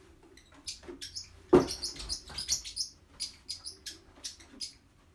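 Pet bird giving a run of short, high chirps, about two or three a second, with a sharp knock about one and a half seconds in that is the loudest sound.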